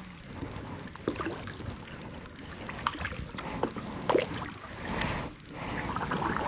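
Kayak paddle working calm water: soft splashes and water trickling off the blade, coming in a few gentle swells.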